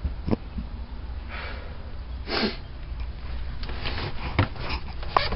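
A person's breaths or sniffs close to the microphone, two short puffs, over a steady low rumble with a few light knocks of handling.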